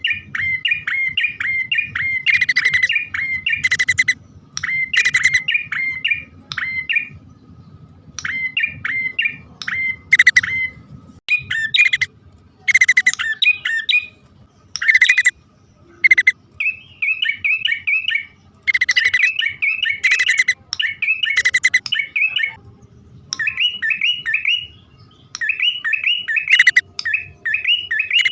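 Prenjak (prinia) birds calling, played as a lure call: bursts of rapid, repeated high chirps lasting a second or two each, broken by short pauses.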